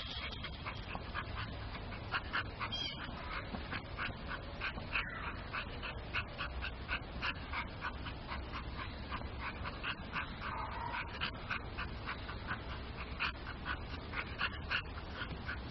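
A dog whimpering and yipping in a long run of short, high cries, about three or four a second.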